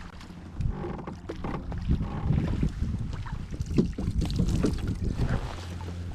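Irregular knocks, taps and rattles on the hull of a plastic fishing kayak while a just-caught bass is landed and handled, over a low rumble of wind on the microphone.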